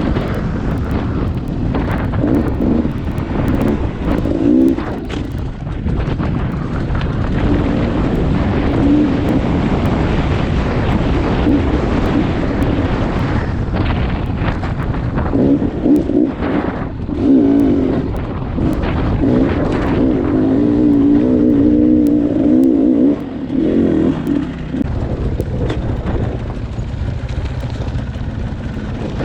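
Dirt bike engine running under load on rough ground, the throttle opening and closing so the pitch rises and falls, with the hardest revving in the second half.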